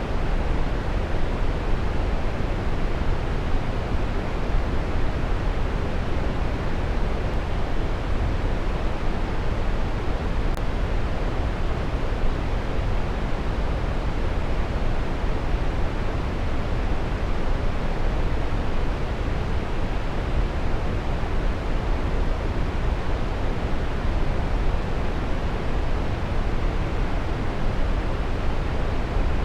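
Waterfall rushing steadily, a dense even roar of falling water with most weight in the low end and no change in level.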